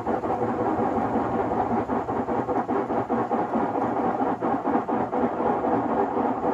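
Privileg 3001 S washing machine running, its drum turning with a steady rumbling noise broken by many small irregular knocks.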